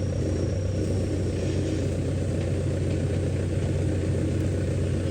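An engine running steadily at an even idle, with a low hum and no change in speed.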